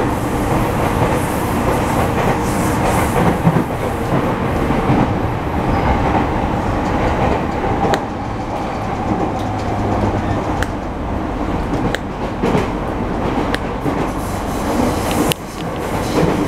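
Running noise inside a car of a Sotetsu 10000 series electric commuter train at speed: a steady rumble of wheels on rail, with a few sharp single clicks as the wheels pass over rail joints.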